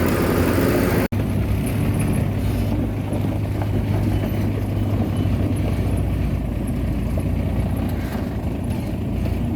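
Bulldozer's diesel engine running under load. It breaks off suddenly about a second in and comes straight back quieter and lower, a steady hum to the end.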